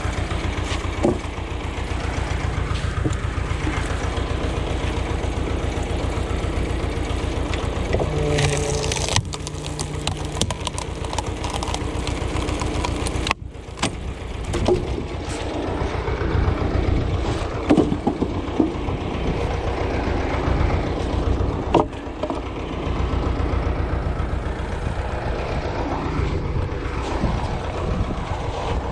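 Ursus tractor engine running steadily, with a few sharp knocks and cracks over it.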